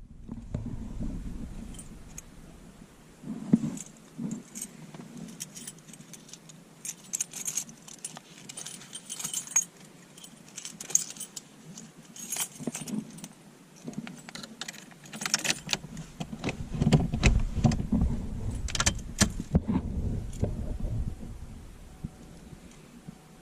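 Car keys jangling and clicking irregularly, with heavier low knocks and rumbling of handling in the car for a few seconds in the last third.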